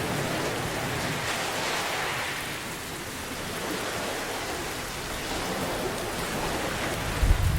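Steady heavy rain falling, with a low rumble of thunder starting near the end.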